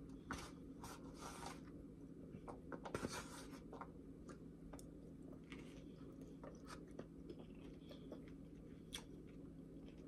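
Faint chewing of a beet and cucumber salad: soft scattered crunches and mouth clicks, a little louder about three seconds in, over a steady low hum.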